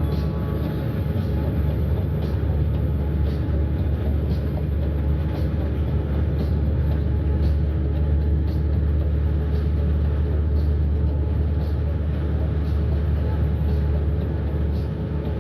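Bus driving along a road, heard from inside the cabin: a steady deep engine and road rumble with faint light ticks about twice a second.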